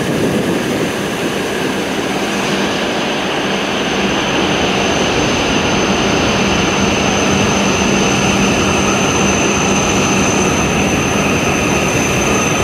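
E7 series Shinkansen train running into the platform as it slows for arrival: a steady rush of the passing cars with a high whine that slowly drops in pitch.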